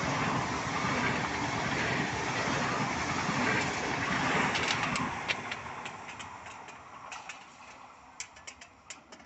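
Frecciarossa high-speed train passing through the station at speed: a loud rush of wheels on rail and air that fades from about five seconds in as the train draws away. Scattered sharp clicks follow as it recedes.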